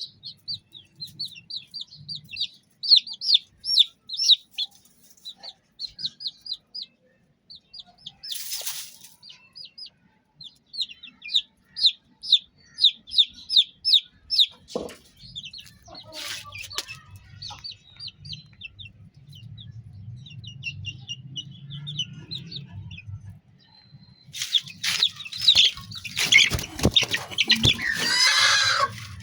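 Chicks peeping in rapid runs of short, high-pitched cheeps. About 25 seconds in they turn louder and busier, mixed with scuffling knocks.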